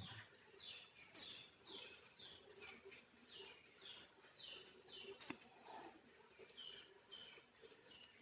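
Faint bird calls: a run of short, falling chirps repeated about twice a second, with a single sharp click about five seconds in.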